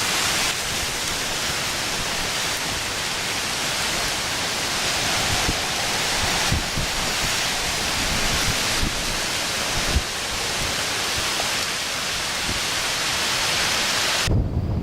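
Severe straight-line winds of 60–70 mph blowing hard: a loud, steady rushing hiss with a low rumble underneath and a few gusts thumping on the microphone, one of them about ten seconds in.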